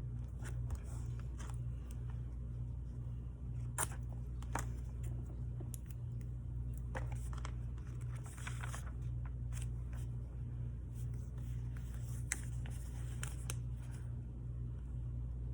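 Paper and craft supplies being handled: scattered small clicks and brief crinkling and rustling, like planner pages, stickers or washi tape being moved and peeled, over a steady low hum.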